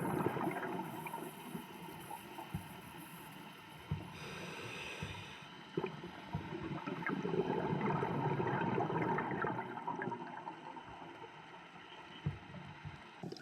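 Underwater sound of a scuba diver breathing through a regulator. A short hiss of inhaling comes about four seconds in, then a longer gurgle of exhaled bubbles, with scattered clicks throughout.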